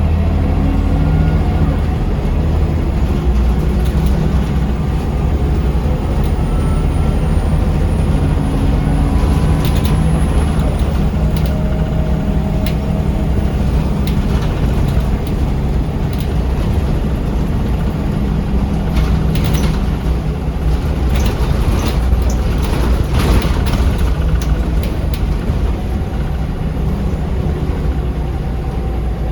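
Scania L94UB bus heard from inside the cabin while under way: a steady low engine rumble with a pitch that rises several times as it picks up speed. Rattles and clicks from the body come through, thickest about two-thirds of the way in.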